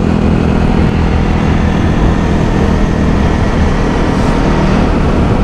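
Motorbike engine running at a steady speed, with wind and road noise.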